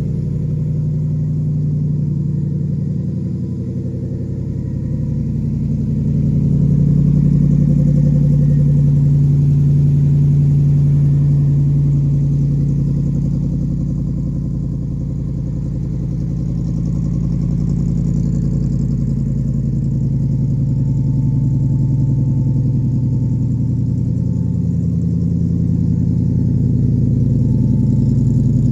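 Blue Cobra's V8 engine running at idle shortly after a cold start, a steady low note that swells a little louder for several seconds in the first half.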